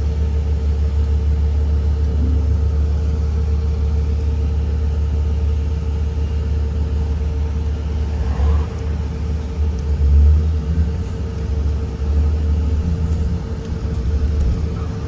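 2023 Blue Bird Vision school bus under way: a steady low engine and road rumble with a constant hum, swelling a little about halfway through.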